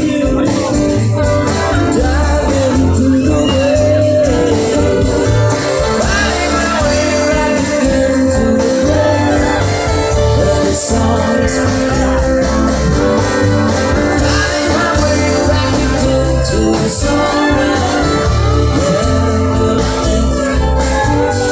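A live band playing a song, with a sung melody over guitar, bass and drums.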